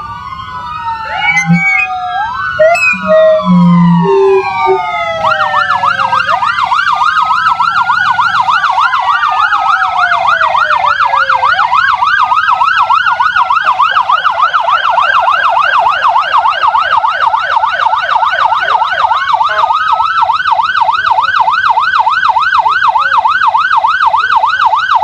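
Several police sirens sounding together, loud: slow rising and falling wails at first, with a few short low tones among them, then switching about five seconds in to a rapid yelp that continues while other wails glide over it.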